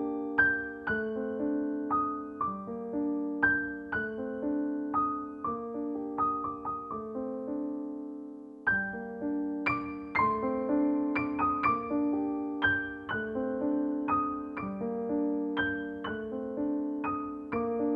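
Slow solo piano music: single notes and chords struck and left to ring, with a brief pause about halfway through.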